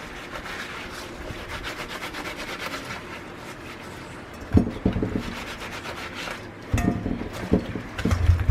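Rubbing noise for about the first three seconds, then several irregular knocks and thuds.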